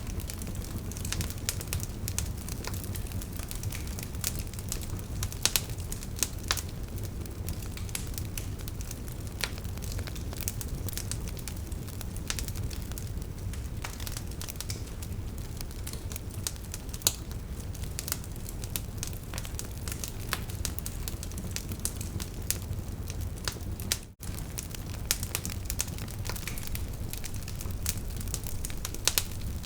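Wood fire burning: a steady low rumble of flames with frequent, irregular sharp crackles and pops from the burning logs. The sound drops out for an instant about three-quarters of the way through.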